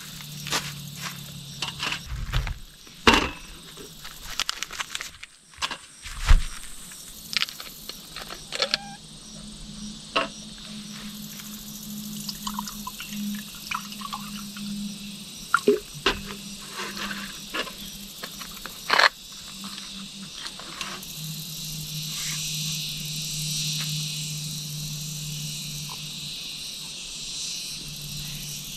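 Crickets chirping steadily in the forest, with scattered sharp knocks and clatter throughout from gear being handled.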